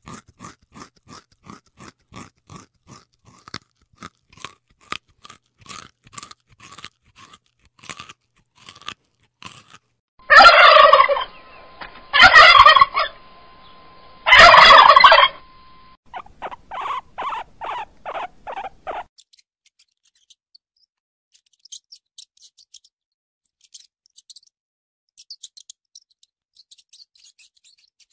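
A turkey gobbling three times in loud, rattling calls about ten seconds in, followed by a quicker run of softer notes. Before it comes a rabbit chewing grass in soft, regular clicks, two or three a second. Near the end there is only faint high ticking.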